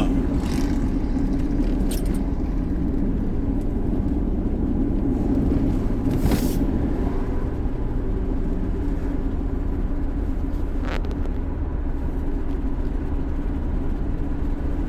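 Steady road and engine noise of a car being driven, heard from inside the cabin, with a brief hiss about six seconds in.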